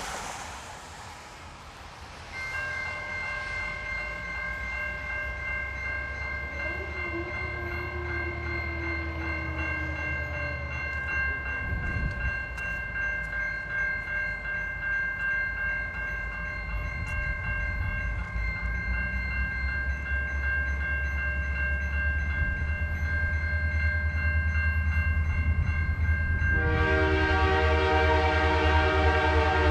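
Railroad crossing bell ringing steadily from about two seconds in, with a locomotive's low engine rumble growing closer. Near the end the locomotive's multi-chime air horn blows, loud.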